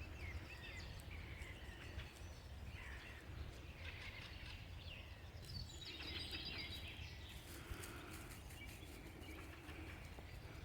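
Several small songbirds chirping and singing, with short calls and a quick trill near the middle, over a low steady rumble.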